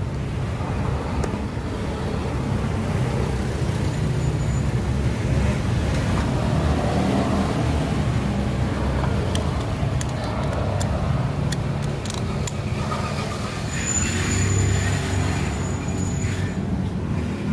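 A steady low engine rumble, with a few sharp clicks about ten to thirteen seconds in and a thin high tone near the end.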